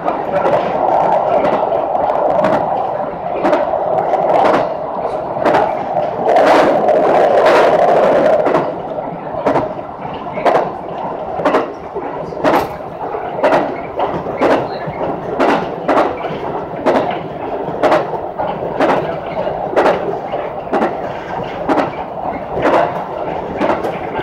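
Electric local train running along single track, heard from inside the car: a steady drone of running noise that eases off about eight or nine seconds in, and wheels clicking over rail joints about once or twice a second.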